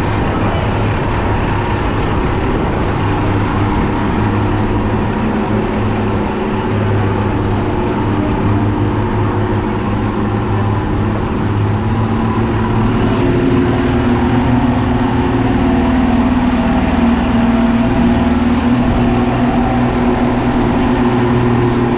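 Motorboat engines running steadily under way, with a continuous hum over a rushing haze. About halfway through, the pitch rises a little as the engines pick up speed.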